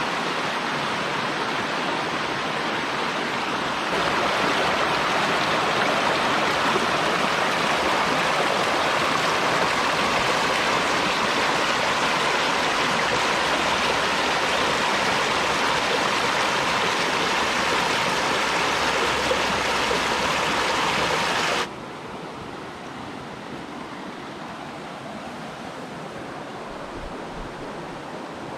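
Forest stream rushing steadily over rocks. The rush gets louder about four seconds in, then drops suddenly to a softer flow about twenty-two seconds in.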